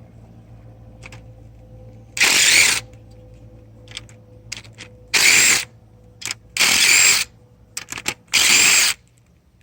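Power driver with a star (Torx) bit running in four short bursts, each under a second, backing fasteners out.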